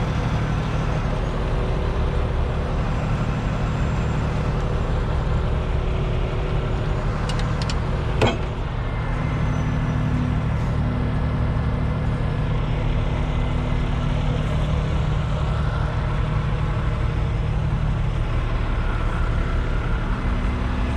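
Heavy truck engine idling steadily, with a single sharp knock about eight seconds in.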